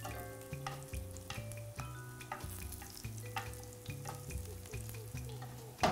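Breaded tofu pieces sizzling in shallow hot oil in a cast-iron skillet, with metal tongs clicking as the pieces are turned over. Soft held musical notes sound underneath.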